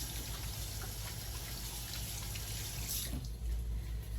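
Kitchen sink tap running as hands are washed under it, then shut off about three seconds in.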